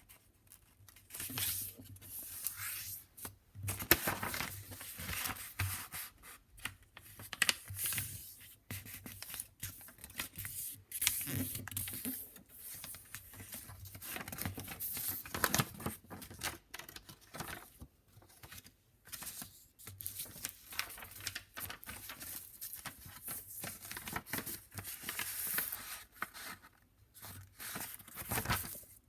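A sheet of paper being handled, folded and creased by hand: irregular crisp rustles and scrapes, some short and sharp.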